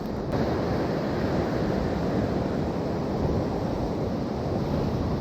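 Rough sea surf, a steady rushing wash of waves, with wind buffeting the microphone.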